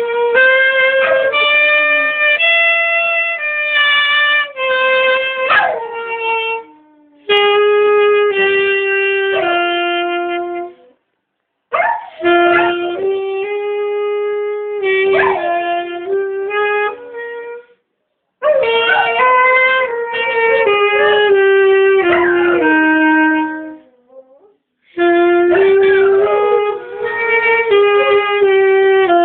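Saxophone playing phrases of held notes, five phrases with short breaks between them, while a pet dog howls along with it, its voice sliding up and down in pitch.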